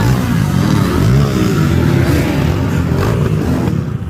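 Off-road motorcycle engines revving up and down, several running together.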